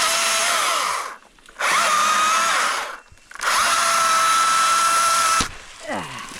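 Battery electric chainsaw cutting in three bursts: the motor whine rises fast at each trigger pull, holds steady through the cut, and stops abruptly when released.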